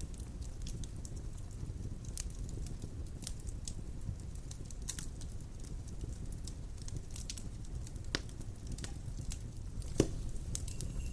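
Wood fire crackling in a fireplace, with scattered small snaps and two louder pops near the end, over a low steady rumble.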